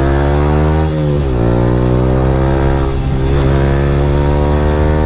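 Yamaha R15 V3's 155 cc single-cylinder engine through an Akrapovic R9 aftermarket exhaust, accelerating on the road. The pitch climbs steadily and drops briefly at two upshifts, about one second in and again about three seconds in.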